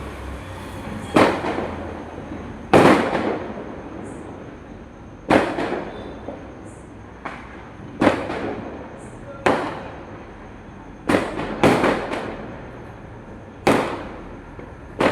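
Firecrackers going off one after another: about ten sharp bangs at irregular intervals, each trailing off in a rumbling echo.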